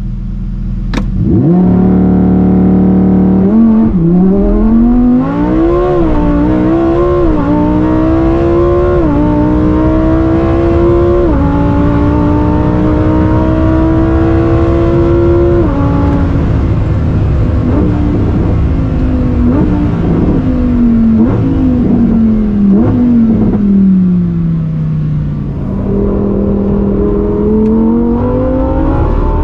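Lamborghini Huracán Tecnica's V10 heard from inside the cabin on a launch-control start: revs held steady for about two seconds, then released into full-throttle acceleration with a string of upshifts, each gear running longer than the last. From about halfway the revs fall away with short blips on downshifts as the car slows, then climb again near the end.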